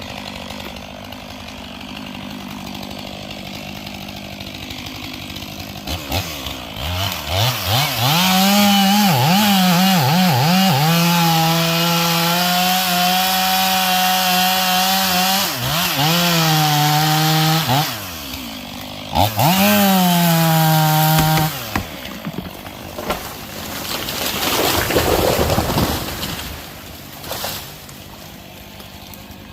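Chainsaw running at full throttle in a cut while felling a red oak, its pitch wavering, dipping twice and picking back up, after a few seconds of running at lower speed. Near the end the saw drops back, and a brief swelling rush of noise follows.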